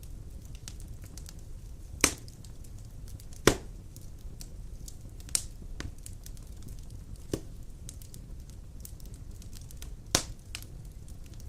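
Large wood logs burning in a fireplace: a low steady rumble of flame with scattered small crackles and about five sharp pops, the loudest about two and three and a half seconds in.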